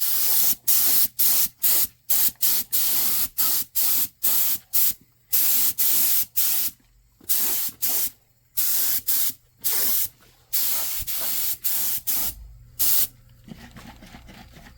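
Paint spray gun spraying coating in short hissing bursts, the trigger pulled and released about once or twice a second. The bursts stop about 13 seconds in.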